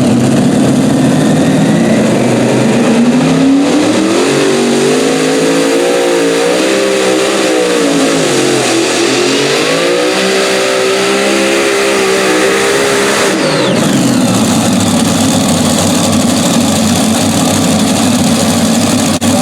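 Super modified pulling tractor's engine at full throttle on a pull: it revs up a few seconds in and holds high revs, its pitch dipping and rising again, then drops off to a lower, rougher run about 14 seconds in.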